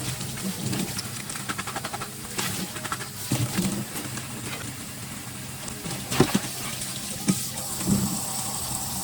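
Dishes and utensils being handled at a kitchen sink: scattered clinks and knocks, the loudest about six seconds in, over a low steady hum.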